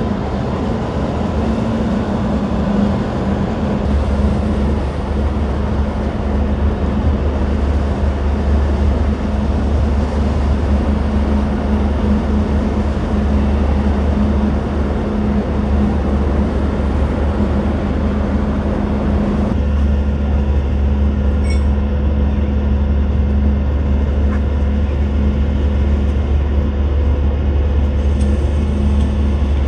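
A steady, loud low rumble with a faint hum over it. The higher hiss drops away abruptly about two-thirds of the way through.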